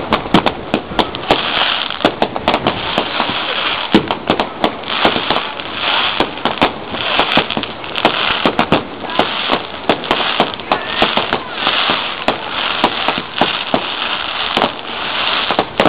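Aerial fireworks display: a rapid, irregular run of sharp bangs from bursting shells, many per second at times, over continuous crackling.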